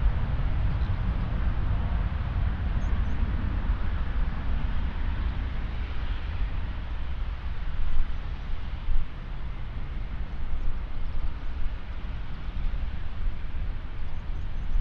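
Jet airliner engines, a steady rush of noise, over a heavy low rumble of wind on the microphone that gusts briefly twice about halfway through.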